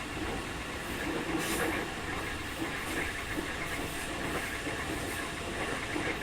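Running noise inside a Keikyu 2000 series electric train car: a steady rumble of wheels on the rails and the running gear, with a few short clacks.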